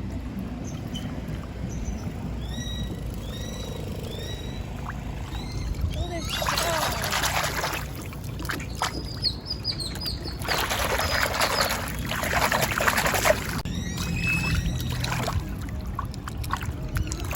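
Creek water splashing and sloshing around hands being washed in it, in two bursts about six and ten seconds in, with birds chirping in short repeated calls between.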